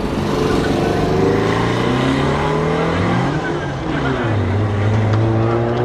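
Brabus-tuned Mercedes-AMG G63 twin-turbo V8 engine and exhaust running under throttle, its note rising in pitch over the first couple of seconds, then dropping about three seconds in and settling to a steady pitch near the end.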